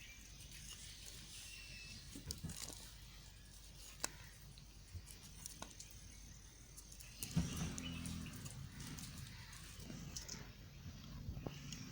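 A knife cutting into a bar of white soap, making faint scattered scrapes and small clicks, louder and rougher for a moment about seven seconds in and again near the end.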